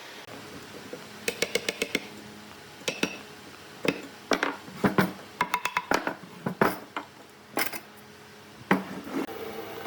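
Irregular sharp knocks and clatter of hard objects being handled, with a quick run of about six clicks a second in. This is typical of tools and wood pieces being picked up and set down at a workbench.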